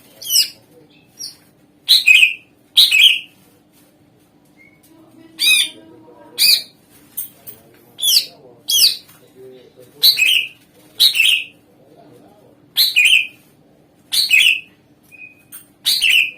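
A cucak ijo (green leafbird) calling in a string of loud, short, sharp calls about once a second, each sliding down in pitch. These are its lure calls, meant to set other songbirds singing in reply.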